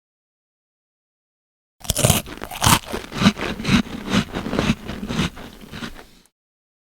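An animal chewing something crunchy: a quick, irregular run of loud crunches that starts about two seconds in and lasts about four seconds.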